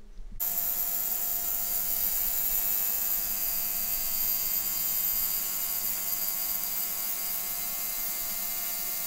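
Ultrasonic cleaner running with engine pistons in its bath: a steady hissing buzz with several held tones, switching on about half a second in.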